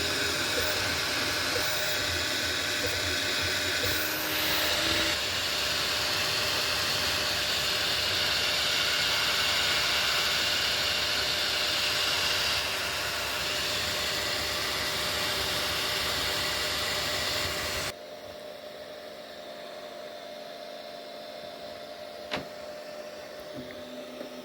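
Steady machine whir with fan-like noise and a few steady tones, cutting off abruptly about eighteen seconds in. Quieter room tone follows, with a single sharp click near the end.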